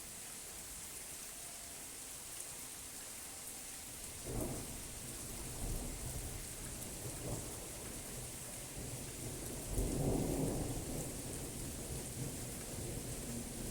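Steady rain falling, with rolling thunder that starts rumbling about four seconds in and swells loudest a little past the middle.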